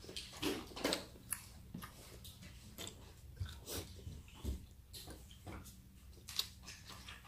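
A person chewing cooked squid close to the microphone: irregular wet clicks and smacks of the mouth, over a faint steady low hum.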